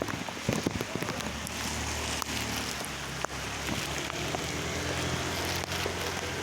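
Steady rain falling, with scattered sharp raindrop taps. A low engine hum runs under the rain from about a second and a half in until near the end.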